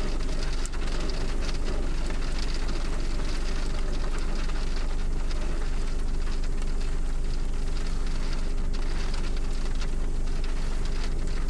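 Steady rain hitting a car, heard from inside the cabin, over a steady low hum from the vehicle.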